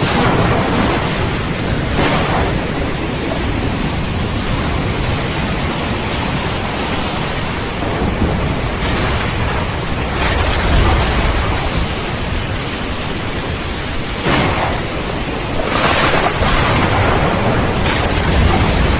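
Steady rain with thunder, including a low rumble about halfway through and sharper claps of thunder near the end.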